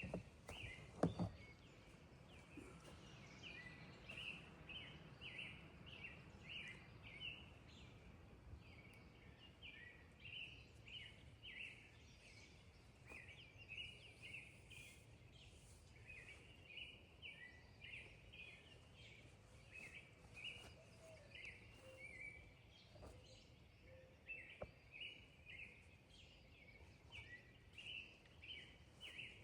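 Faint bird chirps repeating irregularly over quiet outdoor background noise, with a couple of soft knocks about a second in.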